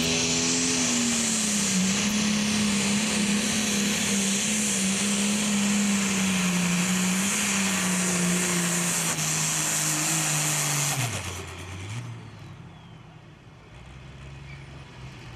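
Pro stock pulling tractor's diesel engine running at full throttle under load, its note sagging slowly as it pulls. About eleven seconds in the throttle is cut and the engine drops off sharply to a low idle, the driver backing off for trouble under the hood.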